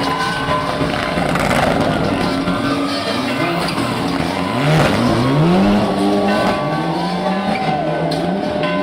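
Mitsubishi Lancer Evolution VI's turbocharged four-cylinder engine at full race load, revving up and dropping back through gear changes, with a sharp climb in pitch about halfway through.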